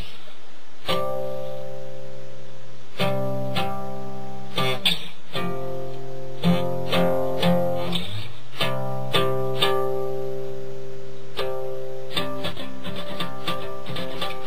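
Acoustic guitar strummed by hand, an F chord played in its low-F shape, ringing out stroke after stroke with a couple of brief breaks for chord changes and quicker strums near the end.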